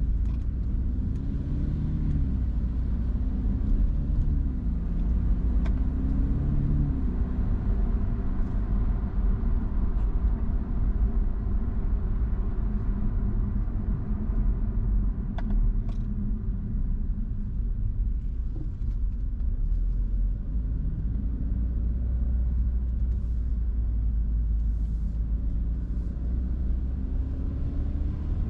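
A car being driven, with a steady low engine and road rumble. The engine note rises and falls a few times in the first several seconds as the car speeds up and slows.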